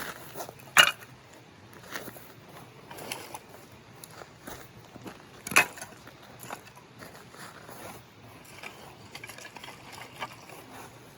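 Firewood being split: two loud, sharp strikes about five seconds apart, with smaller knocks and wood clatter between them.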